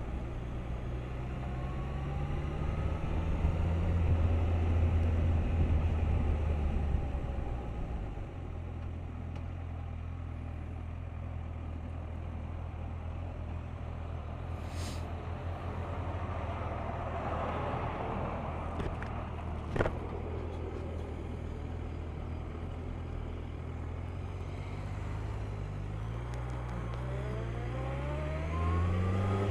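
Suzuki GSX1250FA's inline-four engine under way: the revs climb over the first few seconds, settle to a steady cruise, then rise again near the end as the bike accelerates. A single sharp tap about twenty seconds in.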